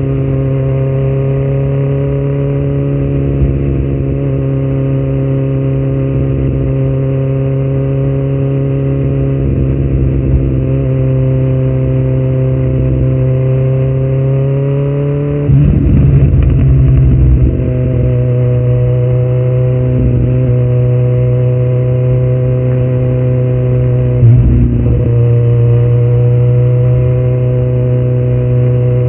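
2018 Kawasaki Z900's inline-four engine running through a Yoshimura muffler and Delkevic headers with no dB killer, loud and held at a nearly steady engine speed. About halfway through it gets louder and rougher for a couple of seconds as its pitch shifts, and there is a brief sharp blip a little later.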